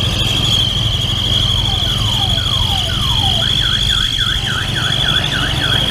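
Electronic siren sounding over a running vehicle engine. A steady high whistle-like tone runs throughout. Four falling swoops come through the middle, then it switches to a rapid warble at about three rises and falls a second.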